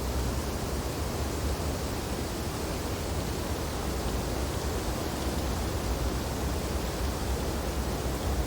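Wind blowing steadily through snowy tree branches: an even rushing noise over a deep low rumble.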